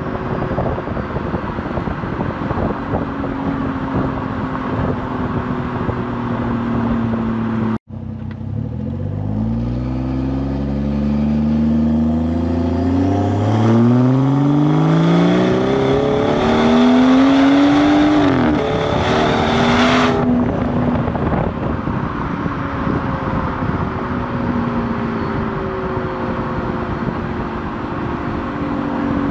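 BMW 440i's Gen 1 B58 turbocharged inline-six and its exhaust, running at a steady note at first. After a brief break about 8 seconds in, it accelerates, its pitch climbing for about twelve seconds, then drops back to a steady cruise.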